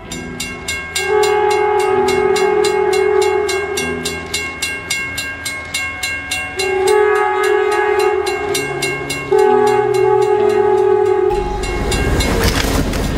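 A diesel locomotive's horn sounds three long blasts over background music with a steady beat. About eleven seconds in, a loud rushing noise takes over as the train ploughs past, throwing deep snow.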